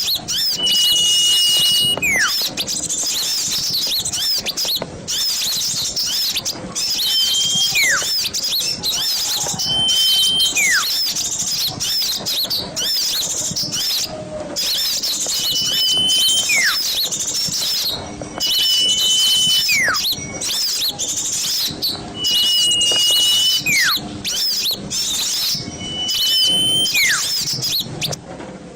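A flock of small birds chattering and chirping densely and noisily. About every three seconds a clear whistled note is held for about a second, then slides quickly downward.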